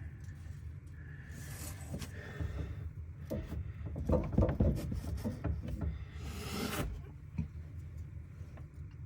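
Old plumbing pipe being pulled out and handled: scattered knocks and clatter, busiest in the middle, with two longer scraping sweeps, over a steady low hum.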